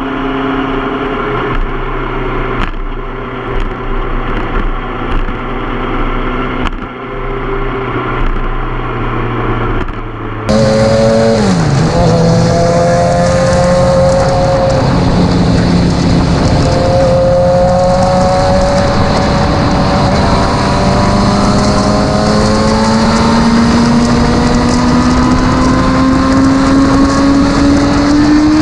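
Suzuki GSX-R sport bike engine running steadily at low revs, then, after a sudden jump in loudness about ten seconds in, heard on the move with wind noise on the microphone. A gear change drops the engine note, and near the end the note climbs slowly as the bike accelerates.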